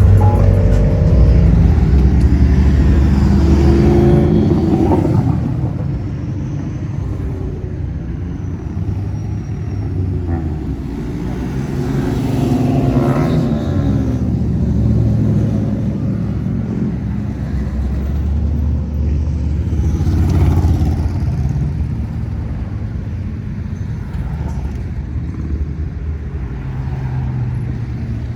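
Classic cars cruising slowly past one after another, their engines and exhausts rumbling low. The sound is loudest in the first few seconds and swells again as further cars pass near the middle and about two-thirds of the way through.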